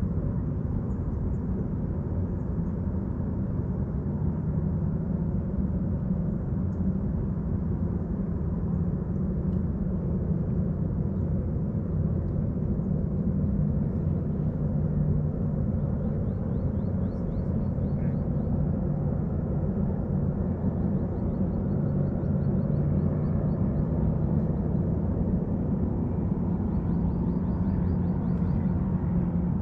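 A steady low engine drone, its pitch wavering slightly. Faint high bird trills, each a quick run of notes, come three times in the second half.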